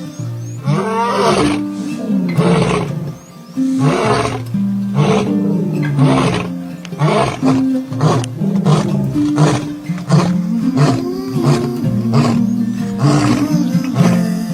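Big cat, most likely a lion, roaring in a run of short calls about one a second, over background music with sustained low notes.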